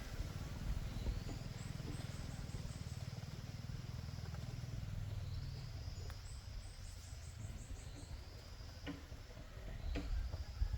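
Outdoor rural ambience: a low rumble of wind on the microphone, with repeated high-pitched chirping trills from small creatures. A few short knocks come near the end.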